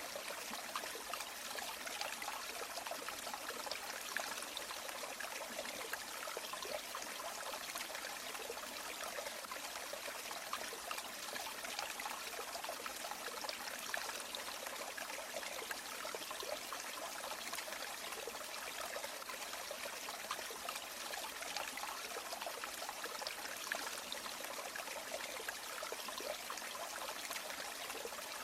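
A river or stream flowing and babbling steadily, an even hiss of running water with small splashes flickering through it.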